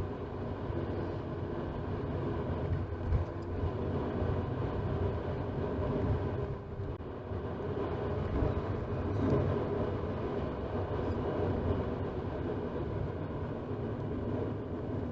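Steady road and engine noise inside a moving 2018 Toyota RAV4's cabin, as picked up by the dashcam's built-in microphone.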